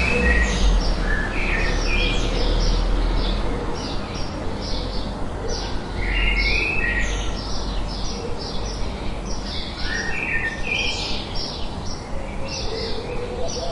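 Songbirds chirping: many quick, high chirps repeating all through, with a few lower warbled phrases at the start and about six and ten seconds in, over a steady rushing noise with a low rumble.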